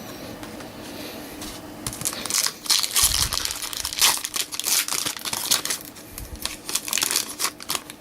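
Foil wrapper of a Topps Chrome trading card pack being torn open and crinkled, starting about two seconds in.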